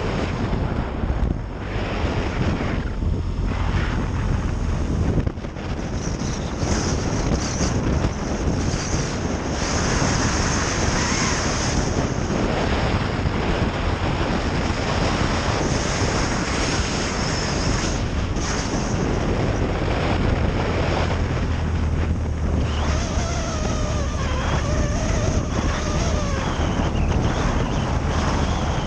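Heavy wind buffeting on the microphone, a loud steady rush of noise with a deep rumble underneath.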